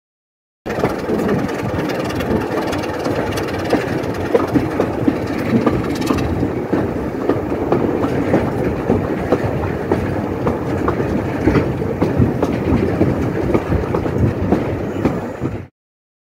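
Diesel-hauled heritage train under way, heard from a Mk1 coach with the window open: a steady rumble and rattle of the wheels on the track with frequent small clicks.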